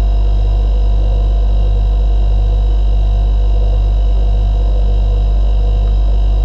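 A motor running at a steady speed: a loud, unchanging low hum with several steady higher tones over it.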